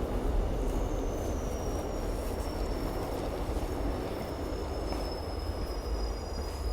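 Train running on rails with a steady low rumble, and a high wheel squeal that slides slowly downward from about a second in.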